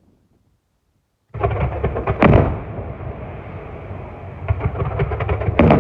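Fireworks display: near silence for the first second or so, then loud booms and dense crackling of shells bursting, with a big bang about two seconds in and another near the end.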